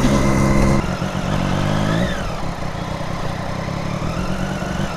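Triumph Daytona 675R's inline-three engine running while the motorcycle is ridden. Its note holds steady, changes about a second in, then rises and falls, and rises again near the end.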